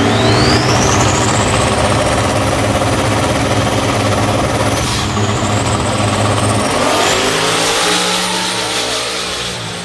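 Drag-racing car at full throttle accelerating hard down the strip. A high whine climbs with engine speed, drops and climbs again about five seconds in, and the engine sound eases off toward the end.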